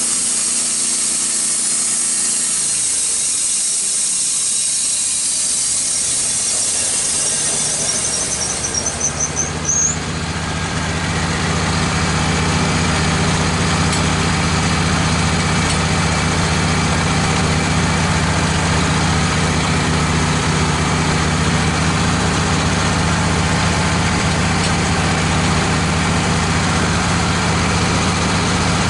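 Wood-Mizer LT15 bandsaw mill's blade cutting through a red oak log, with the engine running under load. About ten seconds in there is a brief squeal and the cut ends; the engine then runs on steadily without the blade in the wood.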